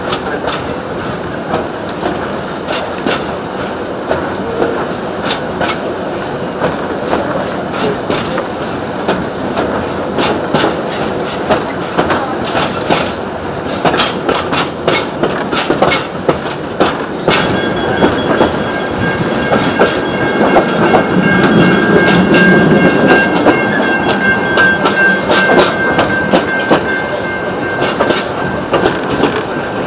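Narrow-gauge wooden passenger carriages of a steam-hauled train rolling along, with a steady rumble and wheels clicking irregularly over rail joints. From a little past halfway, a steady high squeal of wheel flanges joins in.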